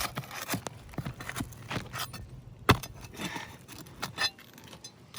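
Scraping, rustling and clicking of hands and tools working loose asphalt shingles on a roof, with one sharp knock a little past halfway.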